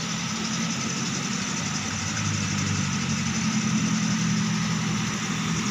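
Vehicle engines idling steadily close by: a low, even running sound that grows a little louder about two seconds in.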